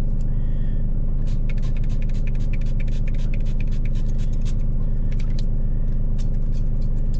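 A truck engine idling with a steady low hum. Over it, from about a second in, comes a quick run of light clicks and scrapes.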